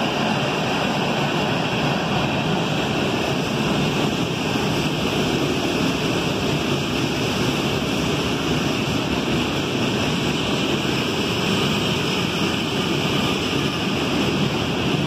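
CSX freight train of tank cars rolling past, a steady rushing noise of wheels on the rails.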